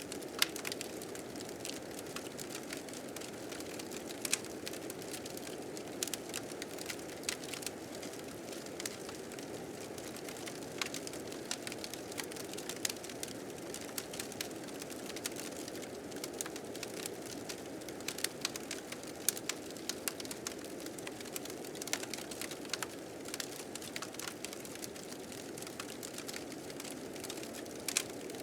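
A wood fire crackling with frequent sharp, irregular pops, over the steady rushing of blizzard wind.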